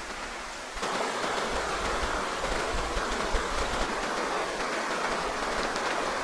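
Steady rush of running water, louder from about a second in.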